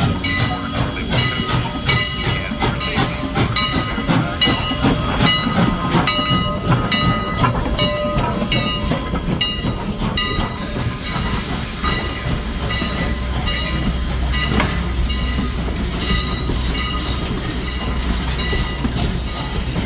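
Steam train standing at the station with repeated ringing metallic strokes, typical of the locomotive's bell. About eleven seconds in, a steady hiss, typical of steam, starts along with a low rumble.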